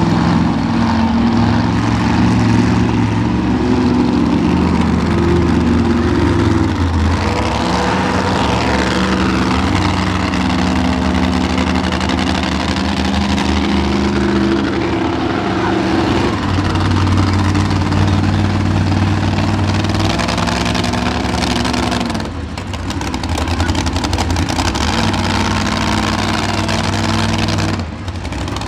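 Two monster truck engines at full throttle in a side-by-side race, their pitch rising and falling as the drivers work the throttle. The sound drops off briefly twice, about two-thirds of the way through and again near the end.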